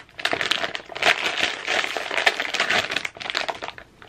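Crinkly plastic snack-chip bag being handled, with a dense run of crackling and rustling that pauses briefly about three seconds in.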